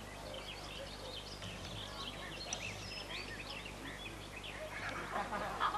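Wild birds singing in trees and bushes: many short, quick chirps and trills, with a denser burst of calls near the end.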